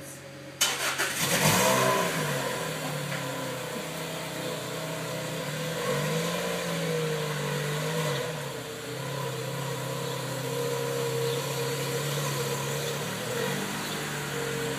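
2005 Lotus Elise's 1.8-litre Toyota four-cylinder engine starting. About half a second in it catches with a sudden flare of revs, then settles to a steady idle. The idle lifts briefly and drops back about eight seconds in.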